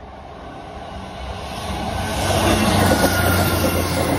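South Western Railway passenger train approaching and running through the level crossing. Its rumble grows steadily louder and is loudest about three seconds in.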